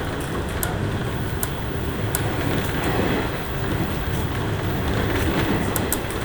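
Running noise inside a JR West 103 series electric train in motion: a steady rumble of wheels on rail, with sharp clicks here and there.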